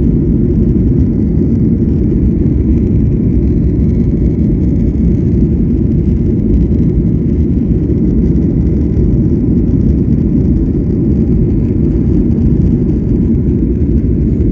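Loud, steady low rumble of a Boeing 737-800's jet engines heard from inside the passenger cabin.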